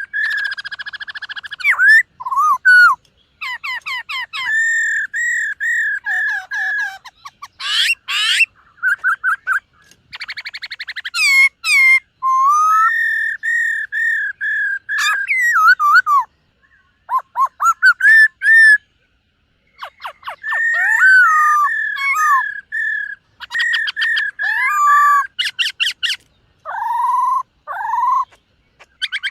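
Black-throated laughingthrush singing a varied, loud song of clear whistled phrases, mostly held at one pitch with sudden drops and slurs. The phrases are broken by rapid trills and short pauses.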